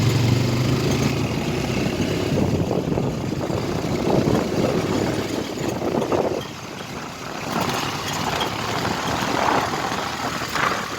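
A motor vehicle running: a steady low engine hum that fades out about two seconds in, leaving a continuous rushing noise with a few surges.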